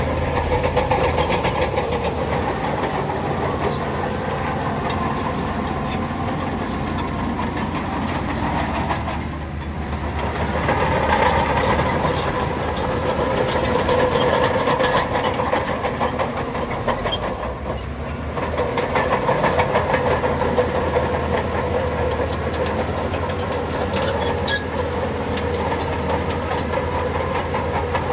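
Shantui crawler bulldozer working: the diesel engine runs under load while the steel tracks clank and rattle steadily. The engine eases off briefly about a third of the way through and again past the middle, then pulls again.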